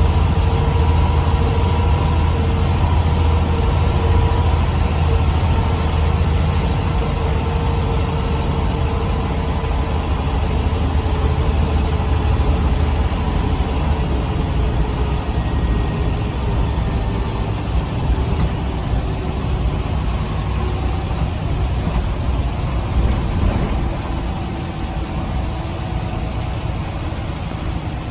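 Scania CN94UB OmniCity bus under way, heard from inside: the diesel engine and ZF automatic gearbox running with a deep rumble and a faint steady whine that dies away about halfway through. The sound eases off a little near the end.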